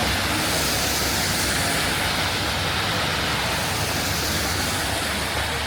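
Rainy city street: a steady hiss of rainfall and traffic on the wet road, with a low vehicle rumble slowly fading away.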